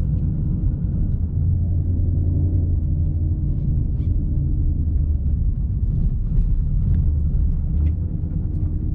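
Ford Mustang GT's 5.0 V8 with full aftermarket exhaust running at a steady low rumble, with no revs rising or falling.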